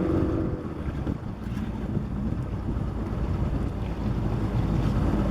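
Boat under way on open water, with wind rumbling on the microphone; a steady engine hum fades out about half a second in, leaving mainly wind and water noise.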